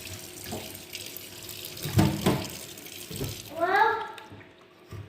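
Kitchen tap running into a sink while raw chicken is handled, with a few knocks; the water stops about three and a half seconds in, and a short voice rising in pitch follows.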